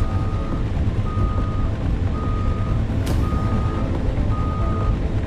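Caterpillar 335 excavator's diesel engine running with a steady low rumble while its travel alarm beeps about once a second, five beeps in all. A single sharp knock comes about three seconds in.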